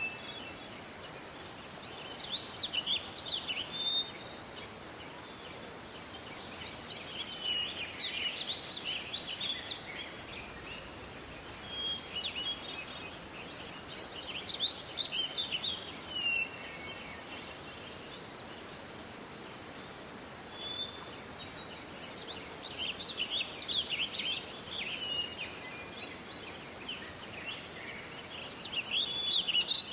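A songbird singing five long, chattering phrases of quick chirps and trills, each lasting two to four seconds with short pauses between, over a steady outdoor hiss.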